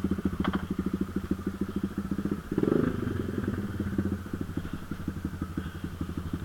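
Dirt bike engine idling with an even, rapid putter of about ten beats a second, briefly louder about two and a half seconds in.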